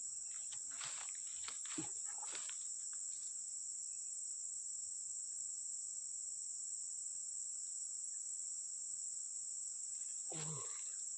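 Steady high-pitched chorus of crickets or similar insects, with a few faint short handling sounds in the first two seconds and a brief murmur near the end.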